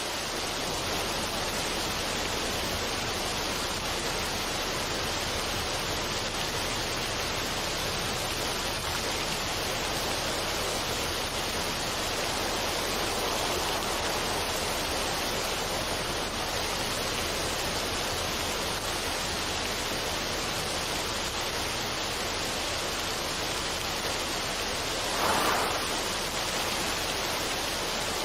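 Steady, even rushing noise of a relaxation ambience track, with no music, swelling briefly about 25 seconds in.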